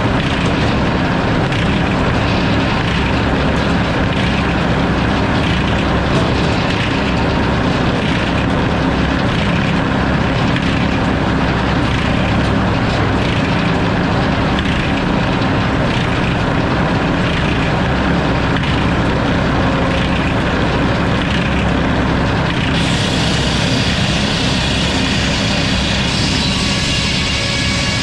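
A sawmill running steadily, with a continuous low machine drone from its engine and saw. Near the end a brighter, higher hiss joins in.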